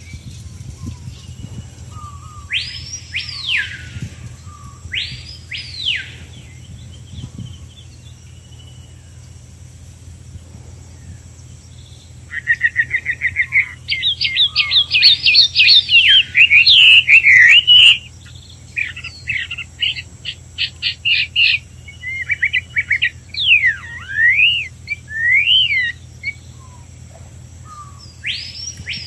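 Songbirds singing in open farmland: two separate rising-then-falling whistles, then, from about twelve seconds in, a loud varied song of rapid trills and sweeping whistles that lasts about a quarter of a minute and ends in a few scattered notes. A steady high thin tone runs underneath throughout.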